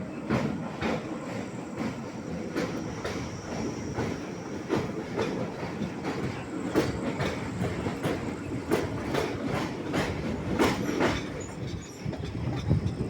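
Passenger train running, its wheels clattering over rail joints in a steady run of sharp, unevenly spaced clicks over a continuous rumble.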